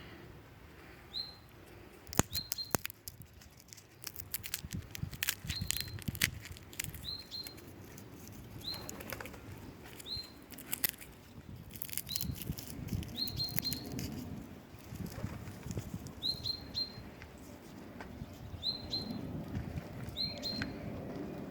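A bird chirping: short, high, single notes repeated every second or two, sometimes in quick pairs. Sharp clicks and taps come in clusters among the chirps.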